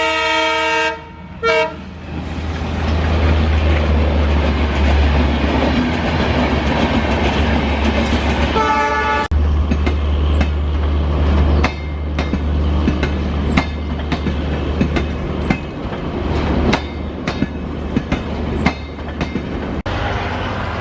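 Diesel train horn sounding, cutting off about a second in, then a short toot. The train runs past with a steady low rumble. A second horn blast comes about eight and a half seconds in, followed by wheels clacking over rail joints in a quick, uneven series.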